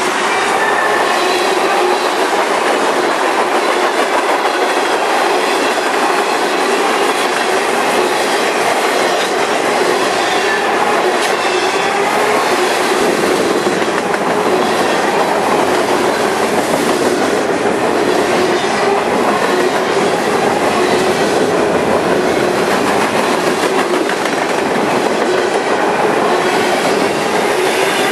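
A long mixed freight train of tank cars, boxcars, hoppers and flatcars rolling past close by at steady speed, its wheels on the rails making a loud, continuous rolling noise.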